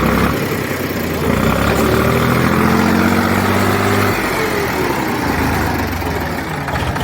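HMT tractor's diesel engine revving under heavy load as the mired tractor tries to pull out of mud: the revs climb for about three seconds, then drop back suddenly about four seconds in and the engine runs on more slowly.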